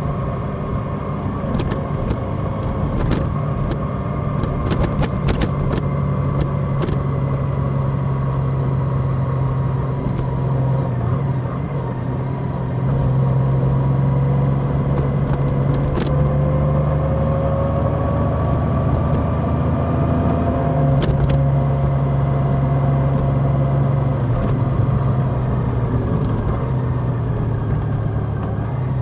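Large motorcycle's engine running while riding, heard on board over steady road and wind noise. The engine note drifts slowly in pitch and steps up in loudness about halfway through, as the speed changes. There are a few sharp ticks along the way.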